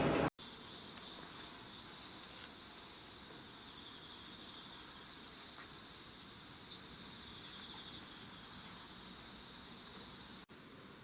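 Louder noise breaks off abruptly at the start, then insects chirp steadily in high, evenly pulsing trills over a faint outdoor hiss.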